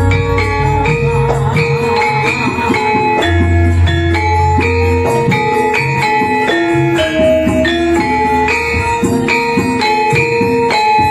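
Javanese gamelan music played live through a sound system: ringing metallophone notes in a steady melody with jingling percussion, over a deep low tone that comes and goes in long stretches.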